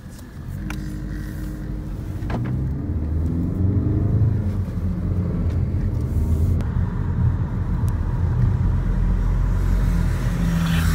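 Car engine heard from inside the cabin, picking up speed with its pitch rising a couple of seconds in, then pulling steadily and gradually louder. A few sharp clicks come in the first couple of seconds.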